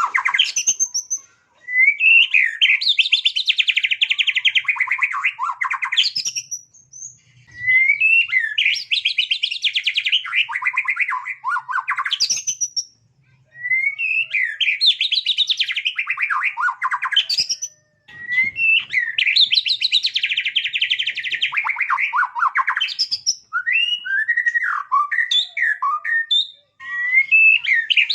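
A small songbird singing loud, repeated song phrases. Each phrase opens with a rising whistled note and runs into a fast, dense trill for about four seconds, with pauses of a second or two between phrases. Near the end it breaks into short, varied chirps before starting another trill.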